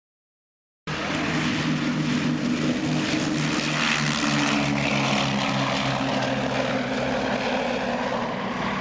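Bristol Blenheim's twin Bristol Mercury radial engines running, a steady propeller drone with a low pitched hum. It cuts in suddenly about a second in.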